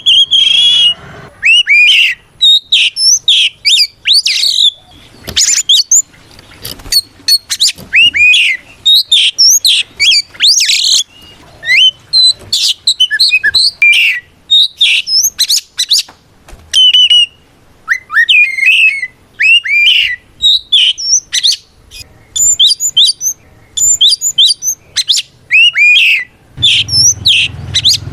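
Oriental magpie-robin singing a loud, fast, varied song of sweeping whistles and chirps in quick phrases with short gaps. This is its challenge song, calling out a rival.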